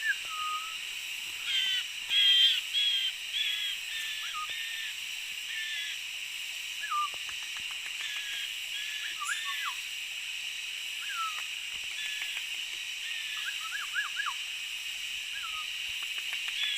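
Green leafbird (cucak ijo) song: a string of varied short whistles and chirps, loudest and densest in the first few seconds, then sparser, over a steady high-pitched hiss.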